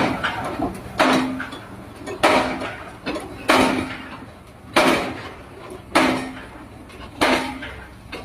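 A series of heavy impacts, about one every second and a quarter, six in all. Each strike is followed by a short ringing tone that fades before the next.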